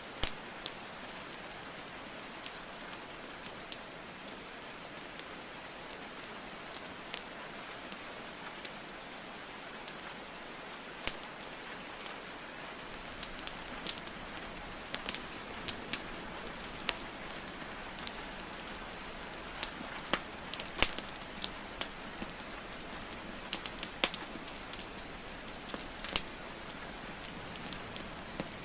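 Steady rain hiss under a wood fire crackling and popping, the sharp pops coming more often and louder in the second half.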